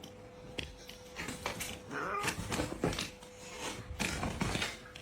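A pet's short calls among scattered clicks and knocks, over a faint steady hum.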